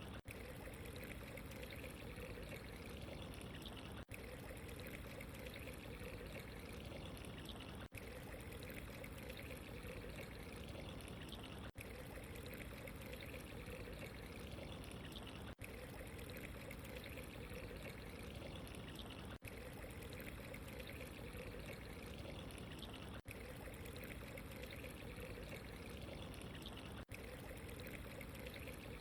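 Steady trickling, running water, dipping briefly about every four seconds as the short recording repeats.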